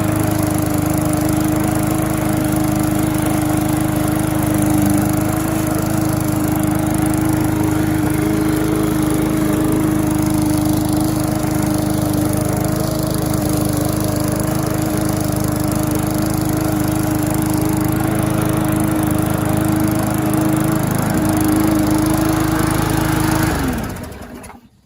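MTD walk-behind rotary lawn mower's small engine running at a steady speed, then winding down and stopping near the end.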